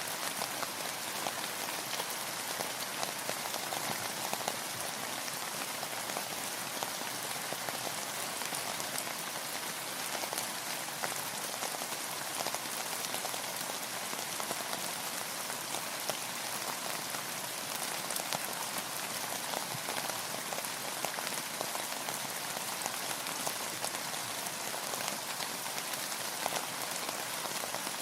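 Steady rain falling, a dense even patter of many small drops striking a surface.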